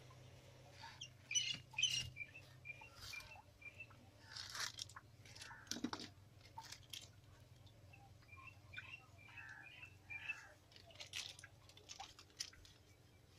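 Small birds chirping in short repeated notes, with the crackle and rustle of a plastic spice packet being handled and torn.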